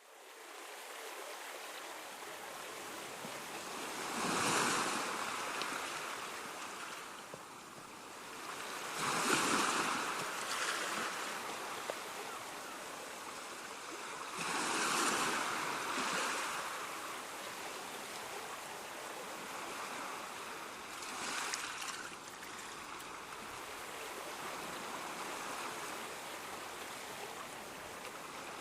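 Ocean waves breaking on a shore: four waves surge in and wash back, about every five or six seconds, over a steady hiss of surf.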